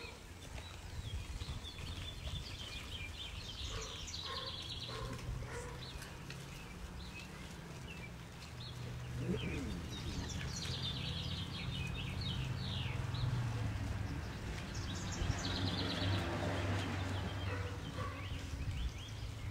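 Small birds chirping in short repeated bursts, over a steady low rumble of outdoor background noise.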